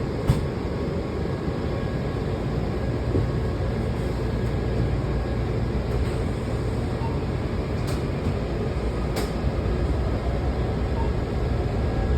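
Washington Metro railcar heard from inside while the train runs, a steady low rumble and rail noise. A few sharp clicks come just after the start and again around eight and nine seconds in.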